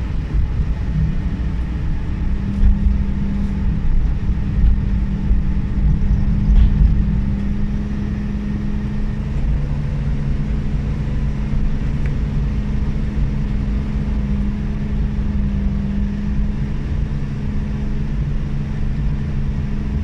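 Cabin sound of a Suzuki Every Wagon DA17W under way: its R06A turbocharged three-cylinder engine holding steady revs around 2,400 to 2,900 rpm, with a constant hum over the rumble of the road.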